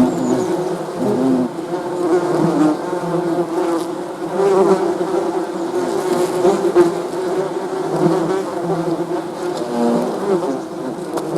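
Many bees buzzing together in a continuous, overlapping drone, individual wingbeat tones wavering up and down in pitch as bees come and go.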